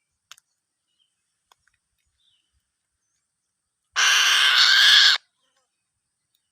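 An eagle gives one loud, harsh call lasting just over a second, starting about four seconds in, with a few faint ticks before it.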